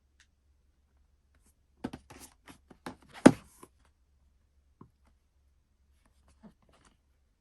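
Objects handled up close: a quick run of clicks and taps, with one louder knock about three seconds in, then a few faint ticks.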